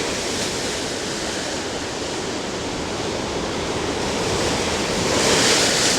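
Rough lake surf washing onto the shore in a steady rush, with a wave breaking louder about five seconds in.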